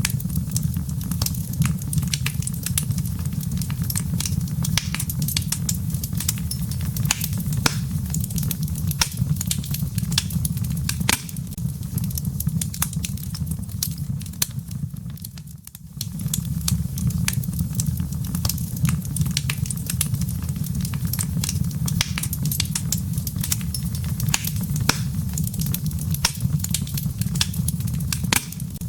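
Fireplace fire crackling: embers and burning wood snapping in quick, irregular pops over a steady low rumble, with a brief dip in level about halfway through.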